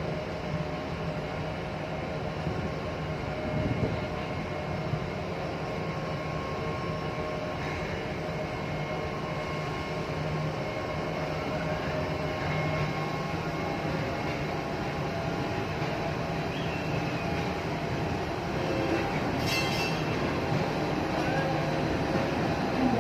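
Panama Canal electric towing locomotives ("mules") running along their rail track, a steady mechanical hum with several constant tones. A brief high hiss cuts in about three-quarters of the way through.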